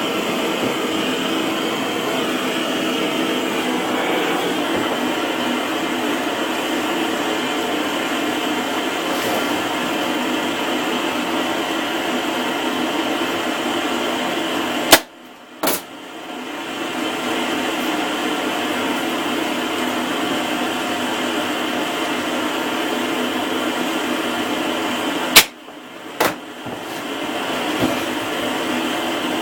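Heat gun blowing steadily. Twice it cuts off with a sharp click, then starts again with another click, its fan building back up over a second or so.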